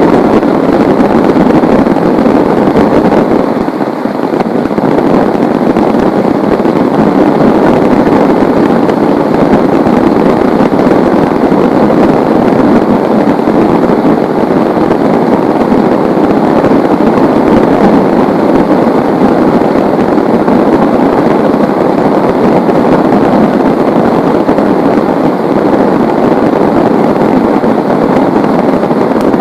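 Heavy rain pouring down steadily in a dense, even rush.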